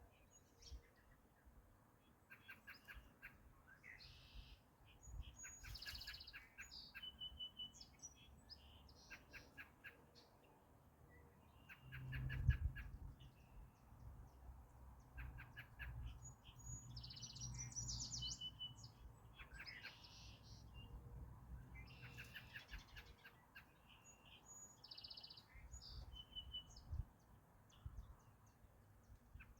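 Several wild birds calling, with short chirps and quick trills repeating throughout. A low rumble swells underneath about twelve seconds in and fades out some ten seconds later.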